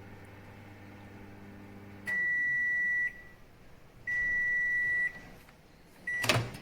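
Cecotec GrandHeat 2590 built-in microwave humming steadily as it runs, stopping about two seconds in. Two one-second beeps follow, signalling the end of the cycle. A third beep is cut short by a loud clunk of the door opening near the end.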